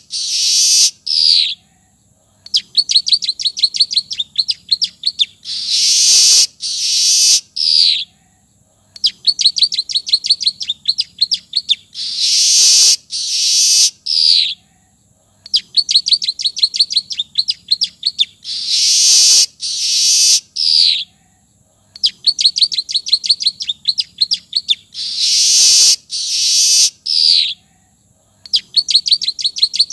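Manyar (weaver bird) song, its phrases filled in with calls copied from the ciblek (bar-winged prinia). The same high-pitched phrase repeats about every six seconds: a fast rattling run of ticks, a loud harsh buzzy burst, then a short downward-sliding note.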